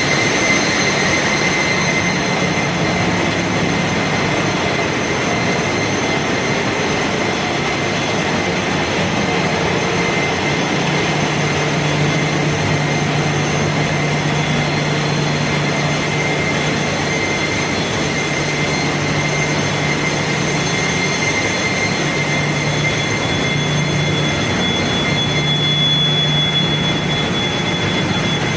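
Ship's engine room machinery running: a loud, steady din with a low hum and a thin high whine.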